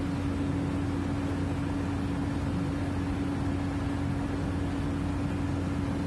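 Steady machinery hum from a docked ship, a constant mid-low tone over a low rumble.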